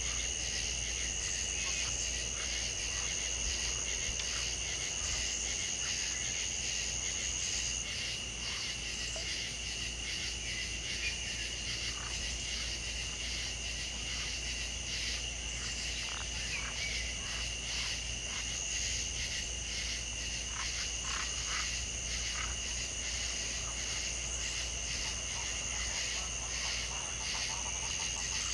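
A steady night chorus of insects such as crickets, trilling continuously at two high pitches, with scattered short chirps from other callers in the middle.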